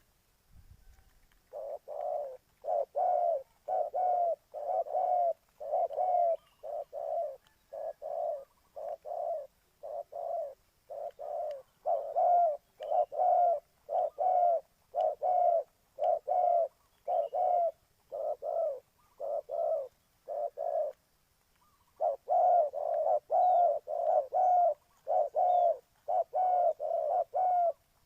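Spotted dove cooing: a long, rapid series of short coos, about two a second, broken by a brief pause about twenty seconds in.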